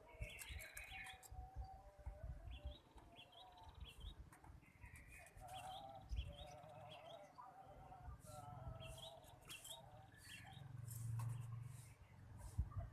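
Faint calls of punai (green pigeons): short wavering, warbling whistle phrases repeated over and over, with quick higher chirps between them.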